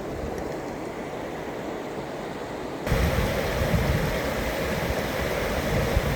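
High Falls of the Pigeon River, rushing steadily, with no pitch or rhythm; it becomes suddenly louder about three seconds in.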